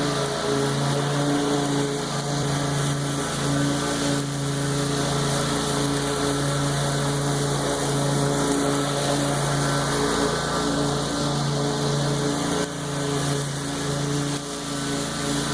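Lawn mower engine running steadily at a constant pitch while mowing tall grass, with a couple of brief dips in level near the end.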